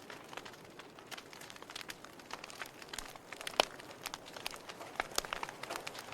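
Wood fire burning in a fireplace, crackling with many sharp irregular pops over a soft hiss, one louder pop about three and a half seconds in.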